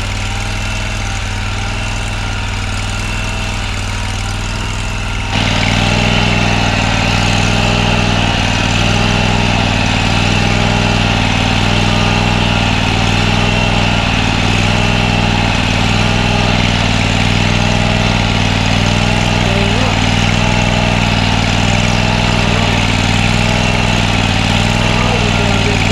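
Toro Z587L zero-turn mower's liquid-cooled engine idling steadily. About five seconds in, the sound steps up suddenly, louder and fuller, with a high whine added, and then holds steady.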